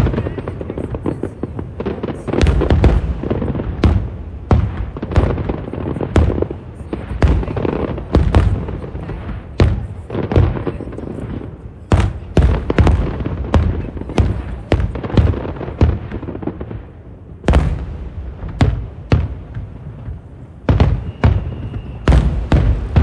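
Aerial fireworks shells bursting in quick, irregular succession: a dense run of deep booms and sharp bangs, thinning slightly in the second half.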